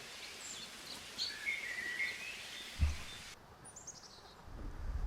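Forest ambience with small birds chirping and calling in short high notes, including a quick run of falling chirps in the second half. A brief low thump comes near the middle, and a low rumble builds near the end.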